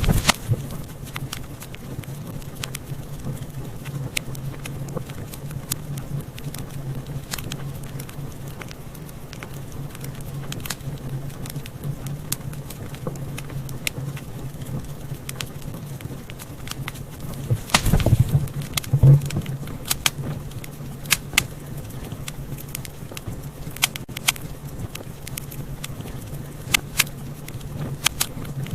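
Wood fire crackling in a fireplace: irregular sharp pops and snaps over a steady low rumble, with a burst of louder pops about two-thirds of the way through.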